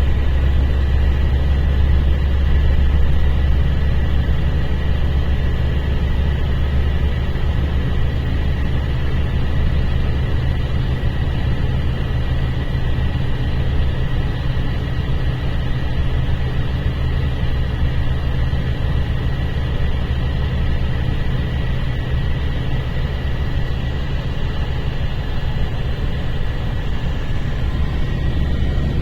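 Mercedes-Benz O-500RSD coach's diesel engine running steadily, with a deep, even drone and no change in pitch.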